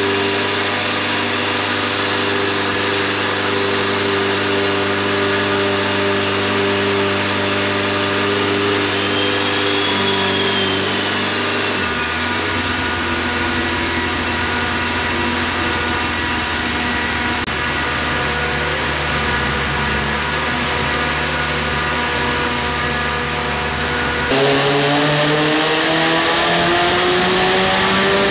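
Turbocharged Honda B20 four-cylinder running on a hub dyno, holding a steady speed for most of the time. Near the end its revs climb steadily under load in a dyno pull.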